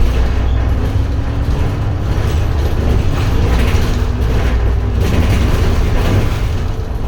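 Edison Motors Smart 110G low-floor city bus under way, heard from inside: the steady low drone of its GX12P compressed-natural-gas engine and drivetrain, with faint mechanical rattles from the body.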